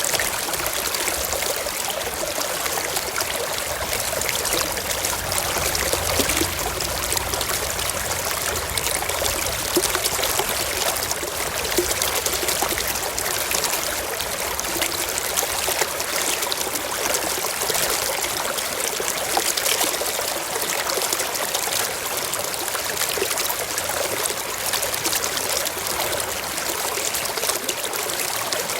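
Forest stream flowing steadily over rocks, a continuous rushing trickle with small splashes throughout.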